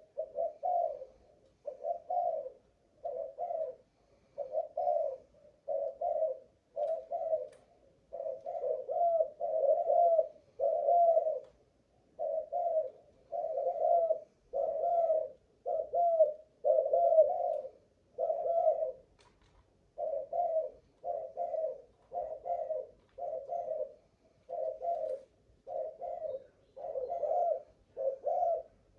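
Spotted dove of the Malaysian cu gáy cooing strain cooing on and on: a long string of short, low coo notes, about one a second, broken only by a few brief pauses.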